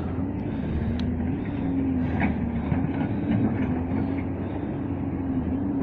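Steady rushing noise of heavy surf breaking on the shore, with a low wavering drone beneath it.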